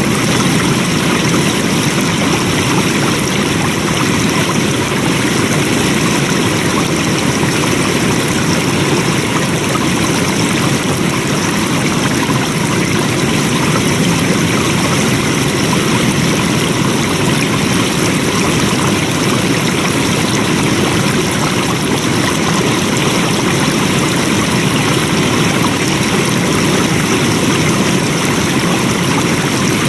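Flowing water, a stream running steadily and evenly.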